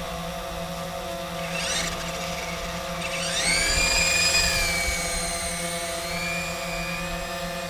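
Whine of a toy RC helicopter's small electric rotor motors, steady, with the pitch sweeping up sharply about three seconds in as the motors speed up, then holding high.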